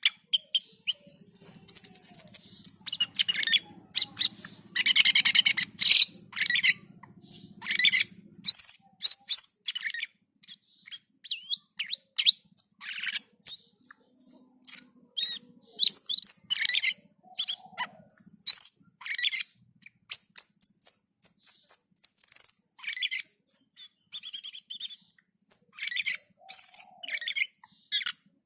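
A cucak keling singing in full, lively song (what keepers call gacor): a dense, unbroken run of short, varied high chirps, whistles and rapid trills.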